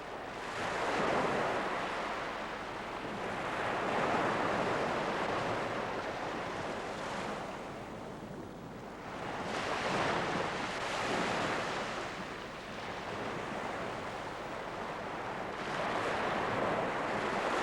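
Waves breaking and washing up a beach, the surf swelling and fading every few seconds.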